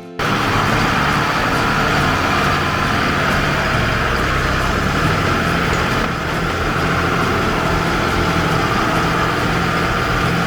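Allis-Chalmers farm tractor engine running steadily and loud, with dense mechanical noise. It cuts in abruptly at the start.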